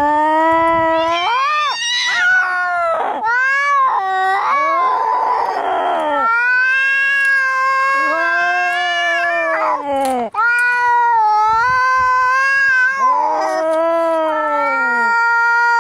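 Cats caterwauling: long, drawn-out yowling wails that rise and fall in pitch, one after another, with a harsher, noisier cry about five seconds in, the angry sound of cats squaring up to fight.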